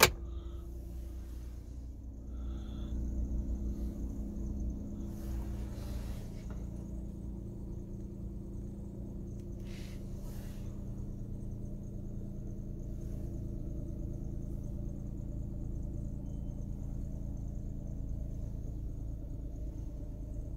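Suzuki Alto Lapin's small three-cylinder engine idling steadily, heard from inside the cabin as a low, even hum. A single sharp knock right at the start.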